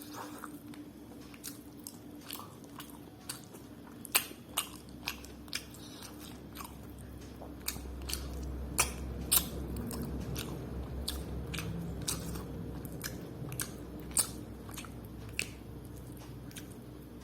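Close-miked chewing of a mouthful of spicy mutton curry with rice, with irregular wet mouth clicks and smacks.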